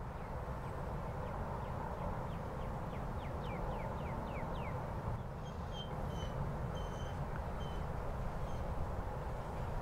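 A steady low rumble runs underneath bird calls. About a second and a half in comes a run of quick down-slurred notes, about four a second and getting louder, and from about halfway several short high whistled notes follow.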